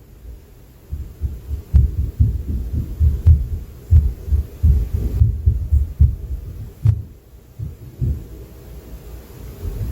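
Dull low thuds of impact noise coming through the ceiling from the flat above, several a second in an irregular run, thinning out in the last few seconds.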